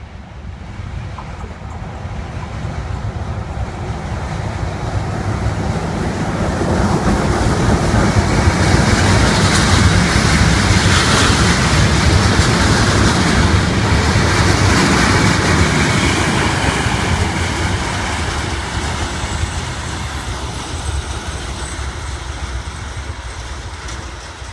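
A train passing along the tracks: wheel and rail noise grows louder over the first several seconds, peaks around the middle and fades toward the end.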